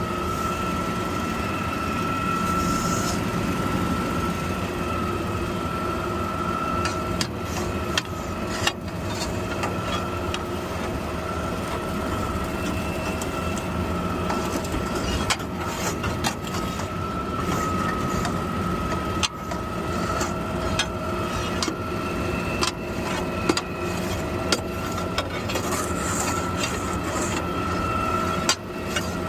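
Garbage truck engine running with a steady high whine over a low hum, with scattered clicks and knocks throughout.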